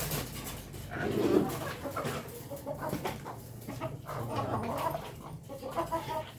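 A small flock of ayam kampung (Indonesian native chickens) clucking in short, irregular calls, mixed with many short sharp clicks.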